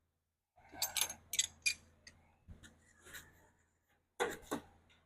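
Scattered metallic clicks and clinks of hand tools and parts being handled. A cluster of them comes about a second in, and two sharper knocks come near the end.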